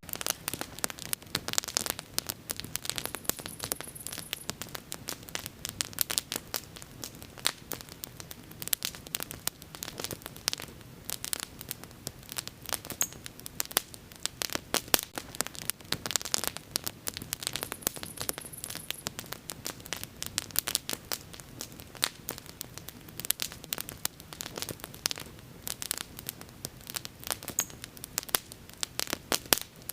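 Wood bonfire crackling, with frequent irregular sharp pops and snaps over a low, steady hiss of burning.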